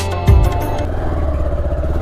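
Background music with a heavy beat about once a second ends about half a second in, giving way to a motorcycle engine running steadily.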